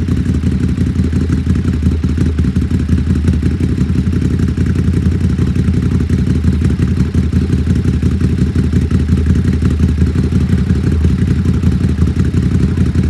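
Ducati 939 SuperSport S's L-twin engine idling steadily through a de-cat Competition Werkes exhaust, with no catalytic converter in the pipe. It is a deep, loud growl with a fast, even pulse.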